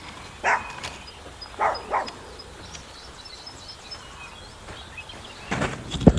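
A dog barking in a few short single barks, once about half a second in and twice about two seconds in, over faint birds chirping. Louder knocks or bumps come near the end.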